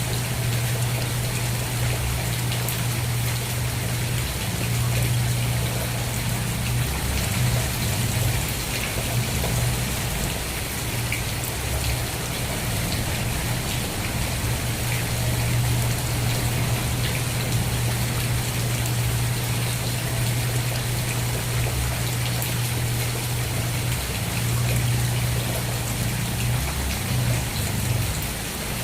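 Steady rain falling, a continuous hiss of drops with faint scattered patters, over a steady low rumble.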